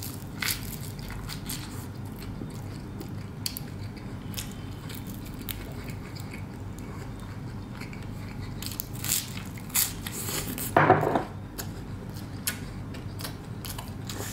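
A person chewing and biting toasted garlic cheese bread dipped in marinara, close up: scattered crisp bites and mouth clicks, with a louder moment about eleven seconds in.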